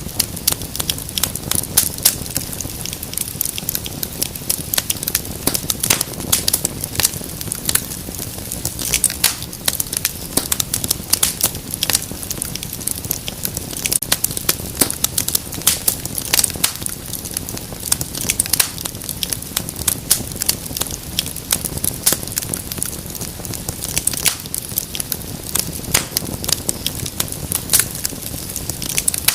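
Wood fire crackling: frequent irregular sharp pops and snaps over a soft steady rumble of flames.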